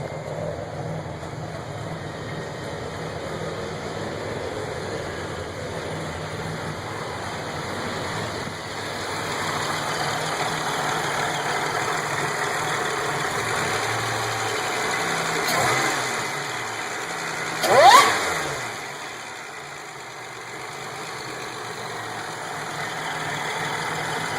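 Supercharged 3800 V6 with an XP camshaft idling in a Buick Regal, a steady low running note. About two-thirds of the way through, a quick throttle blip brings a fast rising whine and the loudest moment, before the engine drops back to idle.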